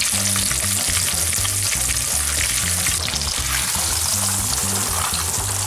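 Breaded schnitzel frying in a pan of hot oil and melted butter, a steady loud sizzle, over background music with low notes.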